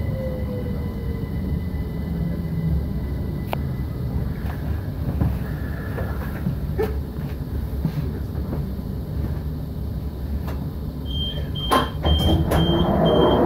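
Electric commuter train slowing to a stop at a station platform: a low rumble from the wheels and running gear, with a whine falling in pitch in the first second. About two seconds before the end come a few clunks and a series of repeated high door-alert beeps as the doors are released and slide open.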